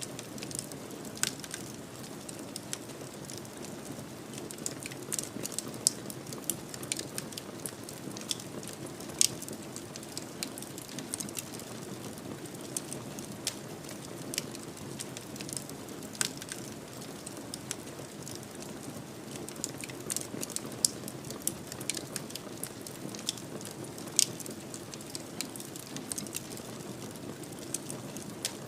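Wood fire in a fireplace crackling: frequent sharp pops and snaps at irregular intervals over a steady low rush of the flames.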